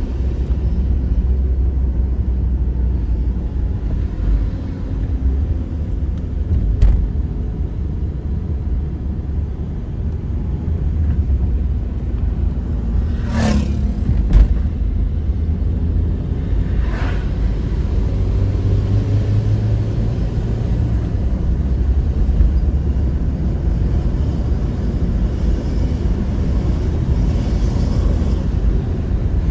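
Steady low road rumble of a vehicle travelling on a highway, with a few short sharp knocks or clicks along the way.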